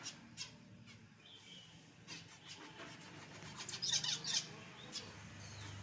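Zebra finches calling: short, high chirps scattered throughout, with a loud burst of rapid calls about four seconds in.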